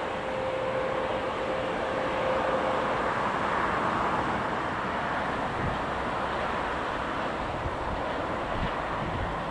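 Jet aircraft engine noise: a steady rush that swells slightly about two to four seconds in, with a thin steady tone that fades out about three seconds in.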